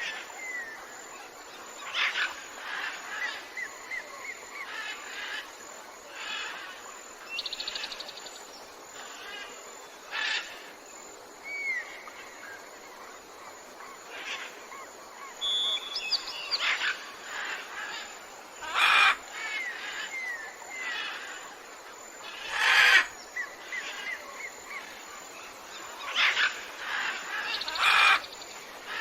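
Tropical jungle birds calling: series of short rising chirps and a few loud, sharp calls every several seconds over a steady background hiss.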